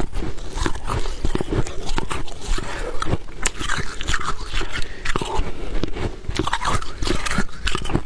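Soft humidifier freezer frost being bitten and chewed close to the microphone: dense, irregular crunching and crackling.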